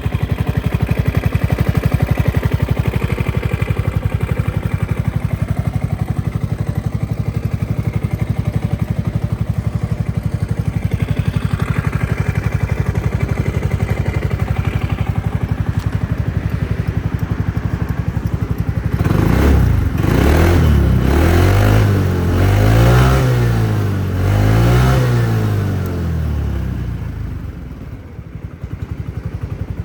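Honda Forza MF06 250 cc single-cylinder scooter engine running through an OVER Racing aftermarket muffler. It idles steadily, is blipped up and down in several throttle revs about two-thirds of the way in, then settles back to idle near the end.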